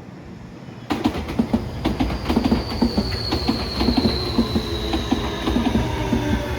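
Electric commuter train running alongside the platform, starting loud and abruptly about a second in, wheels clicking over the rail joints with a high whine that falls slowly in pitch as it slows for the stop.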